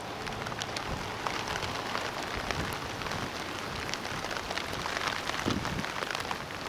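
Steady rain with many sharp raindrop ticks close by.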